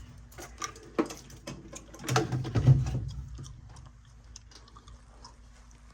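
Clicks, taps and knocks of metal furnace parts and screws being handled during disassembly, with a louder clatter about two to three seconds in, then fainter handling noise.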